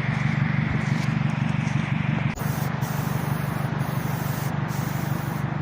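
Aerosol spray-paint can hissing as paint is sprayed, with the hiss cutting in and out in short bursts from about halfway through, over a steady low hum.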